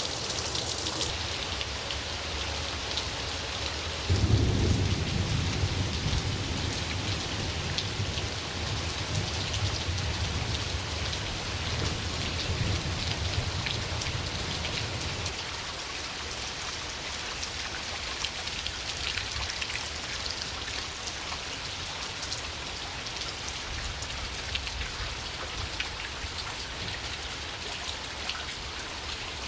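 Steady rain falling, with a clap of thunder about four seconds in that rumbles on low for about ten seconds before fading out.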